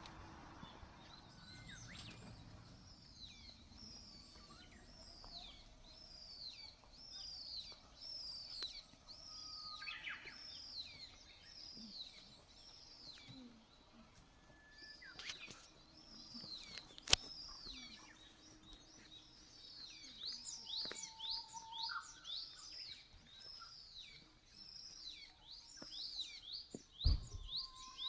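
Wild songbirds calling outdoors: a long run of high, downward-sweeping notes repeated about one to two a second, growing quicker and denser about two-thirds of the way through. There is a single sharp click partway through and a low thump near the end.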